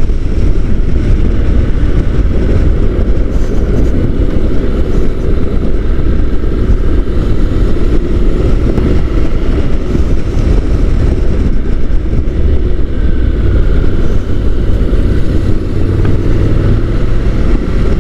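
Honda NC750 DCT motorcycle riding along at road speed, heard on board: a steady engine drone that drifts slightly in pitch under heavy wind rumble on the microphone.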